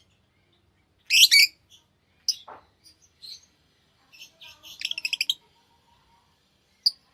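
Lovebirds chirping in short, separate bouts: a loud burst of chirps about a second in, a sharp call that sweeps downward, a quick run of rapid chirps past the middle, and one last sharp chirp near the end.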